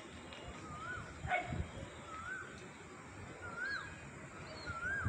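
A bird repeating a short whistled call that rises and then drops, about every second and a half. A brief sharp sound cuts in about a second and a half in.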